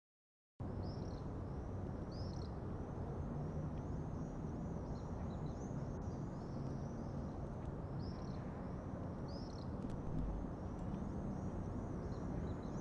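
Outdoor summer-night ambience: a steady low rumble with a bird giving short, high chirps over and over. It comes in abruptly about half a second in.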